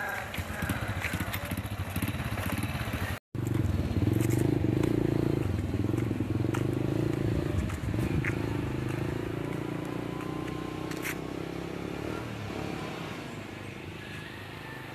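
A small motorcycle engine running steadily. It comes in loudest just after an abrupt cut about three seconds in, then slowly fades away.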